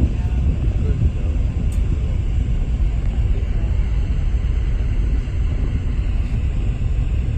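Steady low rumble on board a ferry under way: wind on the microphone over the ship's running noise.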